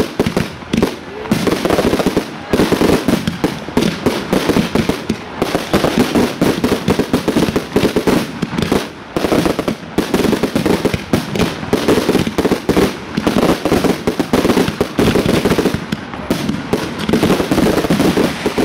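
Fireworks finale: aerial shells bursting in a dense, unbroken barrage of overlapping loud bangs, a continuous racket with only momentary lulls.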